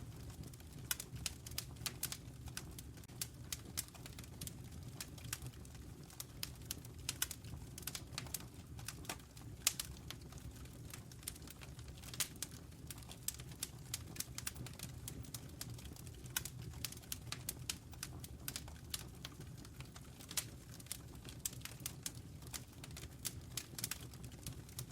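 Wood fire burning in a fireplace: irregular sharp crackles and pops several times a second over a steady low rumble of the flames.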